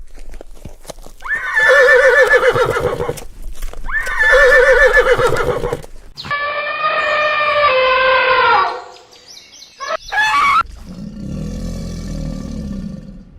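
Horse whinnying: two wavering calls followed by a third that falls in pitch, then a lower call near the end.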